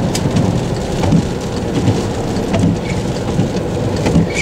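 Heavy rain pattering on the windshield and roof of a moving car, heard from inside the cabin, over a steady low rumble.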